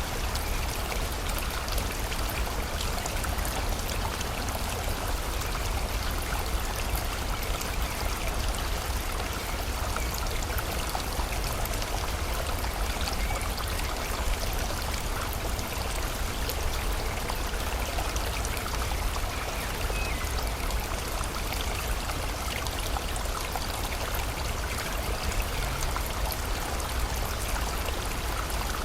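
Steady rain falling together with a flowing river, an even unbroken rush with a low rumble and fine patter of drops throughout.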